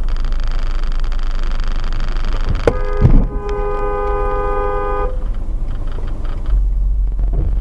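Car road and engine rumble heard from inside a vehicle, with a sharp knock and then a loud thump about three seconds in, followed by a car horn blaring steadily for about two seconds.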